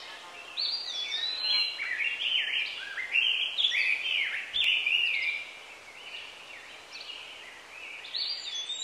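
Songbird singing: a quick run of clear whistled notes sliding up and down, which eases off midway and starts again with a similar phrase near the end, over a faint outdoor hiss.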